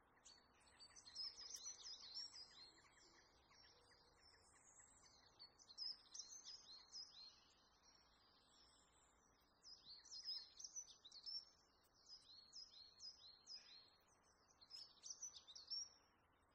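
Faint birds chirping: quick runs of short, high, downward chirps in bouts of a few seconds with brief pauses between, over a faint steady hiss.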